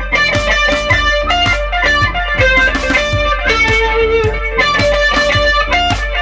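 Epiphone Les Paul electric guitar played through a Vox AC4TV valve amp with a compressor, flanger and digital delay in the chain: a quick, steady run of picked single notes.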